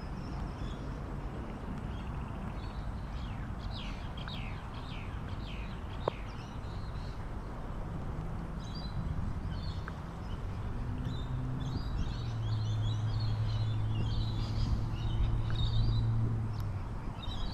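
Birds chirping and calling over a steady outdoor hiss. A low, steady hum builds in the second half and is loudest near the end, with a single sharp click about six seconds in.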